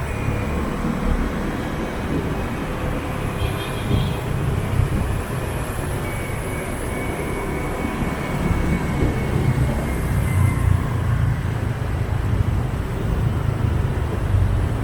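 Motorbike and scooter traffic running: a steady rumble of engines and tyres on the road.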